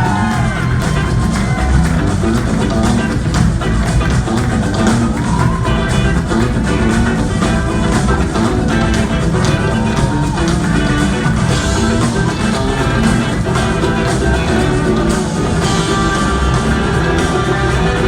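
Live rock band playing an instrumental jam: an electric guitar lead with gliding notes over drums and bass.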